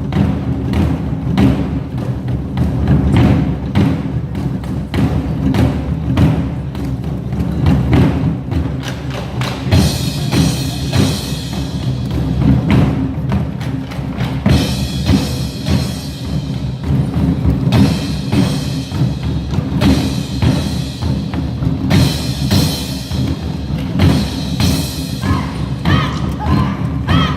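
Nanta ensemble beating drums with sticks in a fast, steady rhythm over a recorded backing track, with brighter music coming in about ten seconds in.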